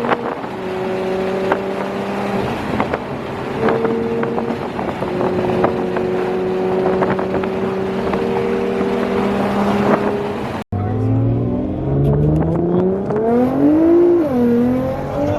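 Nissan R35 GT-R engine heard from inside the car, holding a steady drone while cruising, with scattered sharp clicks. About ten seconds in the sound cuts abruptly to the engine revving up in two rising pulls, with a brief drop between them.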